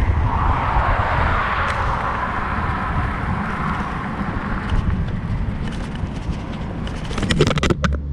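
Road traffic: a vehicle passing with a noisy swell that fades after a few seconds over a steady low rumble, then a quick run of sharp knocks or clicks near the end.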